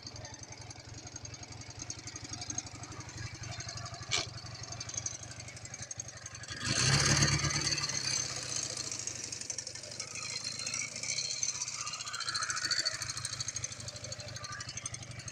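Ural motorcycle's flat-twin engine running with a fast, even pulsing beat, tested on the road after a major overhaul. It gets louder about seven seconds in as it is given more throttle, then eases back. A single sharp click comes about four seconds in.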